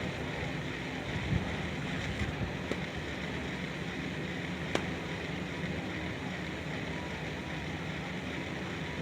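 Steady outdoor ambient hiss with wind buffeting the microphone in a low, uneven rumble, and a few faint clicks.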